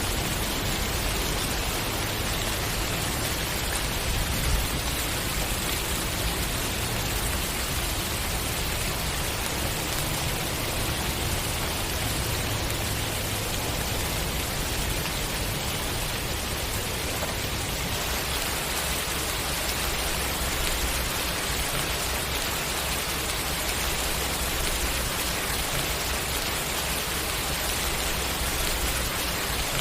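Steady, dense rainfall: an even hiss with a low rumble beneath, which shifts slightly a little past the middle.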